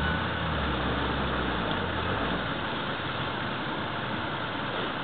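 Off-road 4x4 engines running steadily under a constant hiss. The low engine note is strongest in the first couple of seconds, then sinks into the hiss.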